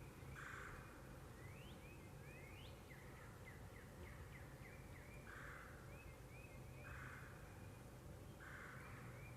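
Faint wild birdsong: a string of quick, high chirps, with a lower, rougher note repeated every second or so.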